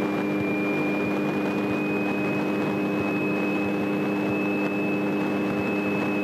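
Light airplane's piston engine running steadily, heard through the cockpit headset intercom, with a steady low hum and a thin high whine that creeps up slightly in pitch.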